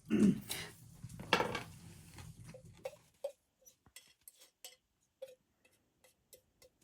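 Dishes and cutlery being handled: two louder knocks in the first second and a half, then scattered light clinks, each with a short ring.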